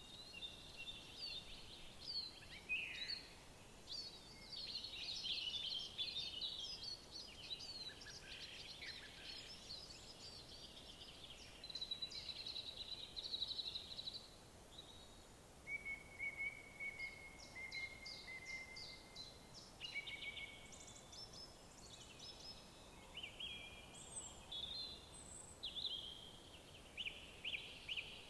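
Several songbirds singing in woodland, their songs overlapping in quick chirps, trills and whistled phrases. A long, even high trill comes about halfway through, and rapid repeated notes near the end.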